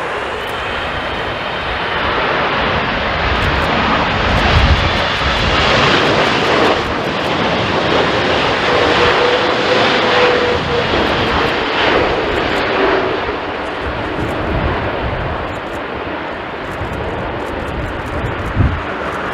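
Twin-engine widebody jet airliner passing on landing in a strong crosswind. Its engine noise swells over a couple of seconds, holds loud through the middle with a faint whine sliding slightly down in pitch, then eases off. Gusts of wind buffet the microphone.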